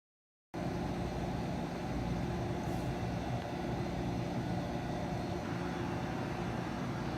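Koch UV250 vacuum packaging machine's Busch rotary-vane vacuum pump running with a steady, even drone and a constant low hum. The sound cuts in abruptly about half a second in.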